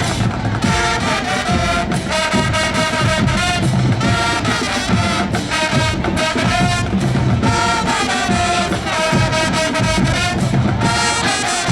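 High school show-style marching band playing: brass horns hold a loud melody over a steady run of drums.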